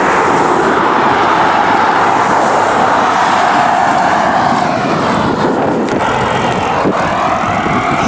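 Steady, loud road traffic noise, with cars going by.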